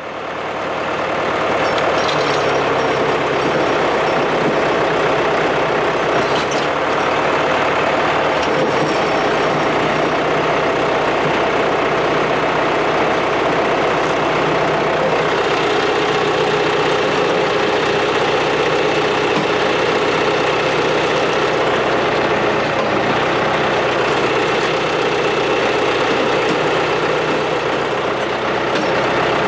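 John Deere 2750 farm tractor's diesel engine running steadily while it powers a three-point skidding winch dragging a heavy log. The engine note drops slightly about halfway through.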